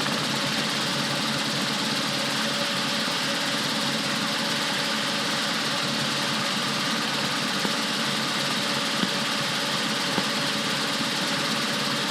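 Rotorway Exec 162F helicopter running steadily, engine and rotor giving a constant, unchanging drone with a few steady tones in it.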